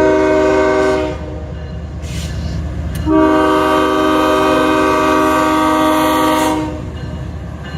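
Nathan K5HL air horn on a CSX diesel freight locomotive sounding two blasts: a short one of about a second, then a longer one of about three and a half seconds starting about three seconds in. A diesel locomotive engine rumbles steadily underneath.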